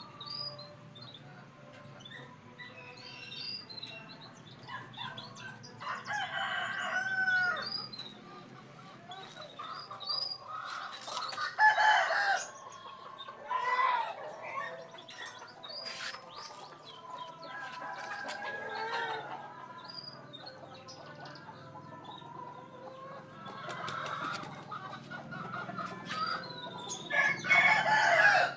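Chickens calling: a rooster crows and hens cluck in separate bouts, with the loudest calls coming about six, twelve and twenty-seven seconds in.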